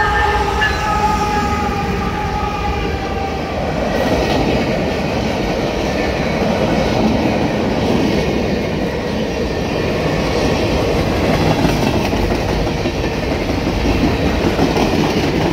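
CSX freight train passing close by: a steady pitched tone from the passing locomotives for the first few seconds, then the loud, steady noise of freight cars rolling by on the rails.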